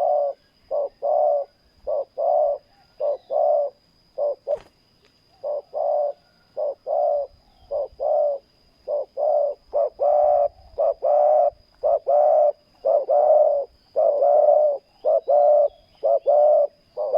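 Spotted dove cooing over and over: a long series of short, low coos in quick groups with brief pauses between them.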